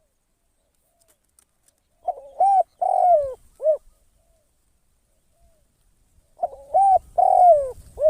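Spotted dove kept as a decoy cooing: two phrases a few seconds apart, each a run of several notes, the longer middle notes sliding down in pitch and a short note closing the phrase.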